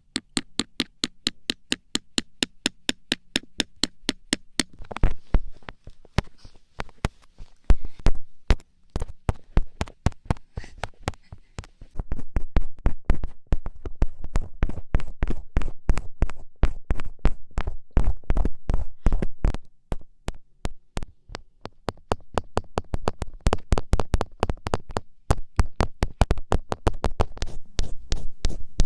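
Fingertips poking and tapping in quick, even runs of about five taps a second. The tap sound changes from clip to clip, duller and heavier after about five seconds in.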